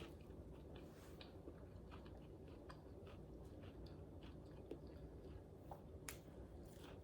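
Faint chewing of a bite of taco bake on puff pastry, with scattered small irregular mouth clicks.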